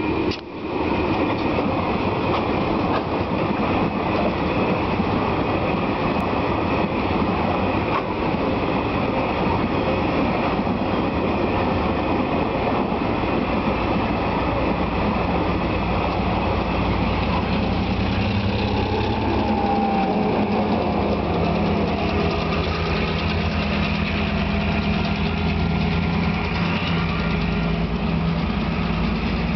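TasRail diesel freight train hauling hopper wagons over a level crossing: a steady, loud rumble and clatter of wagon wheels on the rails. In the second half this gives way to a steadier diesel engine drone.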